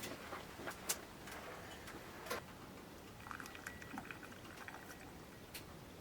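Scattered small clicks and taps, the sharpest about a second in and two seconds in, over a faint steady hiss, in a small enclosed space.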